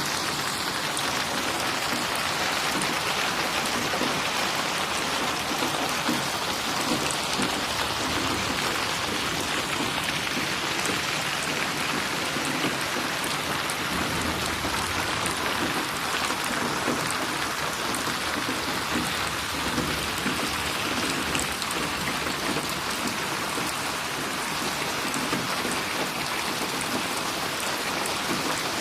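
Steady rain falling, with drops splashing on a surface.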